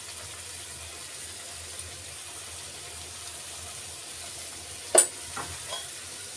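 Onion, tomato and cashew masala paste frying steadily in oil in a steel kadai, with a sharp clink about five seconds in and a few faint ticks after it.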